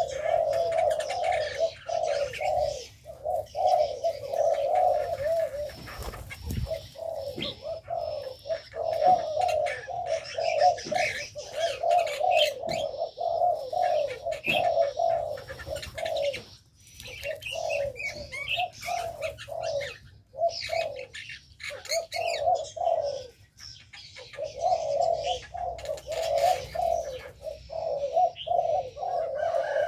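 Doves cooing almost continuously in low, wavering phrases, with smaller birds chirping higher up.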